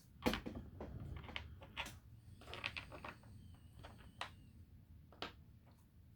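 Light, irregular clicks and taps of small 3D-printed plastic parts being handled and set down.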